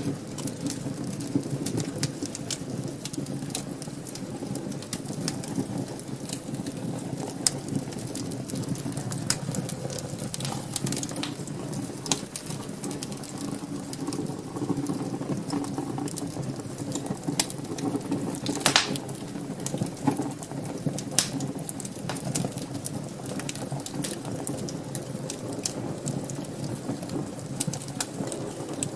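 Wood fire burning in a fireplace: a steady low rush of flames with frequent crackles and pops, one louder pop about two-thirds of the way through.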